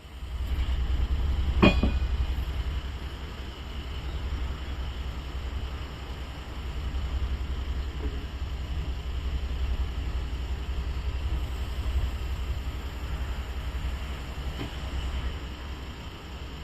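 Dual-mode road-rail vehicle under way, its diesel engine giving a steady low drone, with a sharp clank about two seconds in and fainter knocks later.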